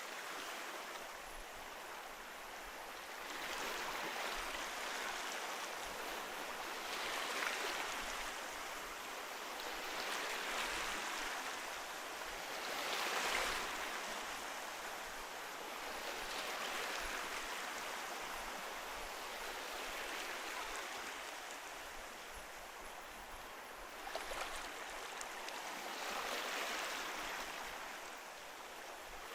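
Ocean waves breaking and washing in, a steady rush of surf that swells and eases every three to four seconds.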